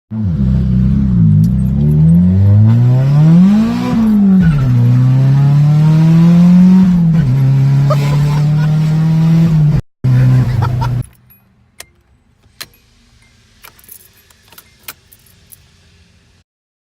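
Nissan 240SX car engine running loud, its pitch rising and falling as it is revved, then cutting off about eleven seconds in. A few light clicks and jingles follow.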